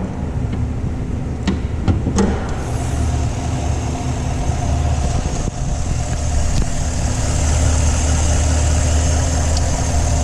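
Chevrolet Tahoe's 6.2-litre V8 idling steadily under an open hood, with a few light clicks in the first couple of seconds and a steady hiss joining in about two and a half seconds in.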